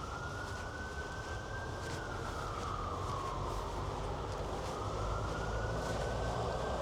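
A siren, most likely an emergency vehicle's, wailing slowly up and down in pitch: it holds high, falls about two seconds in, then climbs again, over a low rumble of city traffic.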